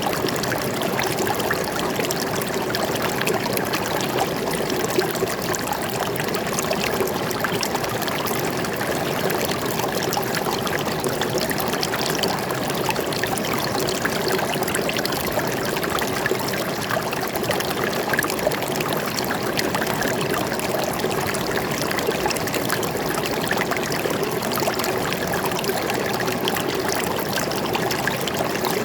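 Steady flow of a small forest stream, water running and trickling over rocks.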